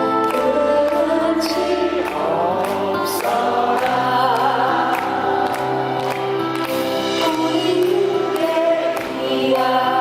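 Live band music: sustained, choir-like chords with a light percussion beat.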